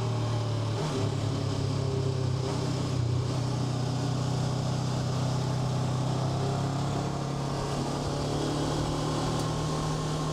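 Honda NX500's 471 cc parallel-twin engine running at a steady pace while the motorcycle is ridden, with wind rushing over the rider.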